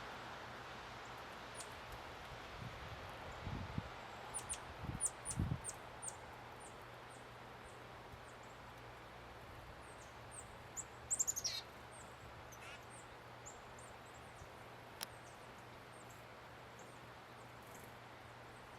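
Small songbirds giving short, very high chip calls again and again, with one louder falling run of notes about halfway through. A few low thumps come a few seconds in.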